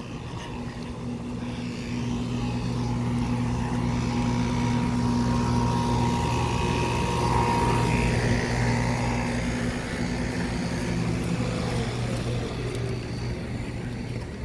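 Several commercial air-conditioning condensing units running in cooling mode: a steady compressor hum under the noise of the condenser fans. It grows louder toward the middle and eases off near the end.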